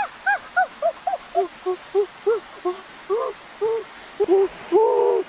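A bird calling a fast run of short rising-and-falling notes, about three a second. The notes drop lower in pitch after about a second and a half, and one longer note comes near the end.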